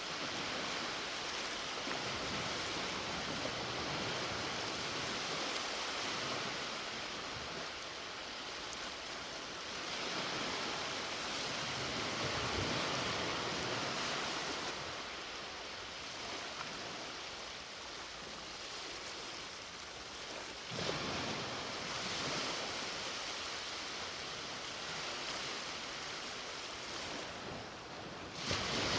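Ocean waves breaking and washing up on a beach, a continuous surf that swells and eases every few seconds.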